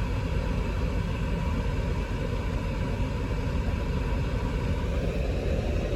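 2020 Volvo S90's engine idling with a steady low rumble, just after a start.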